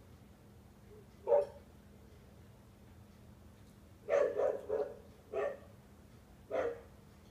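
Recorded dog barking played back: a single bark about a second in, then a quick run of three barks around four seconds in, followed by two more single barks.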